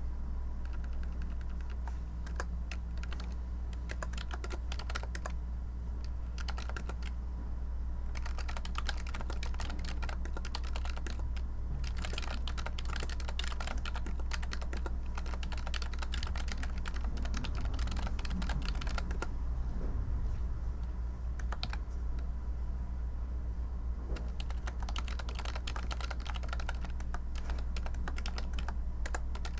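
Typing on a computer keyboard: runs of rapid key clicks broken by short pauses, over a steady low hum.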